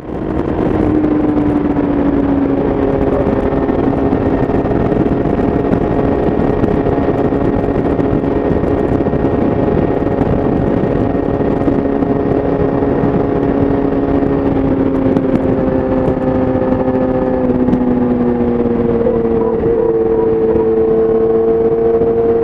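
Yamaha YZF-R6's inline-four engine running through an Akrapovic exhaust while riding at a steady pace. The engine note holds nearly steady and shifts down in pitch about three-quarters of the way through, with a steady rush of wind and road noise underneath.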